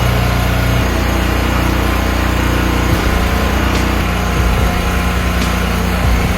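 Small engine of a log splitter running steadily. Its low note shifts slightly about a second in and again around three seconds.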